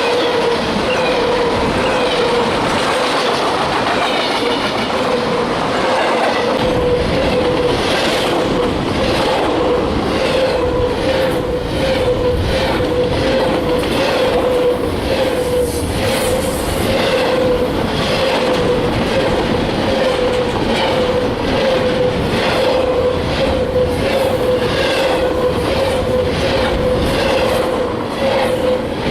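Freight train cars rolling past, their wheels clicking over rail joints in a steady rhythm a little more than once a second, with a steady wavering squeal-like tone from the wheels throughout. The clicking becomes distinct about a quarter of the way in.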